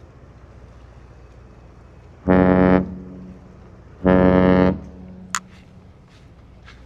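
Oasis-class cruise ship's horn sounding two short blasts, each about half a second long and the second slightly longer, followed by a sharp click.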